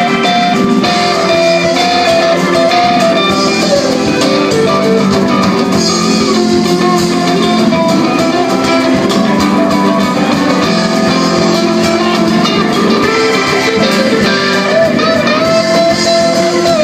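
A live band playing, with guitar to the fore and a drum kit behind.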